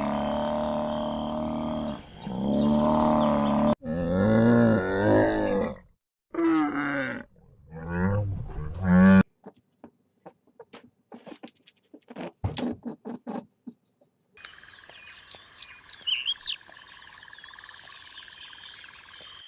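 Big cat roaring and growling in several separate calls over the first nine seconds. These are followed by a few seconds of scattered short clicks, then a steady hiss with small high chirps near the end.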